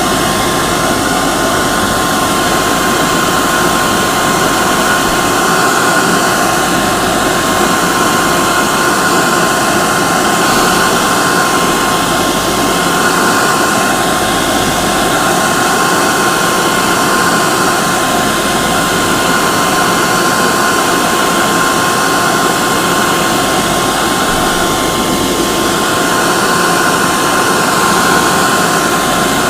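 Hair dryer running steadily: an even, loud rushing of air with a constant motor whine through it.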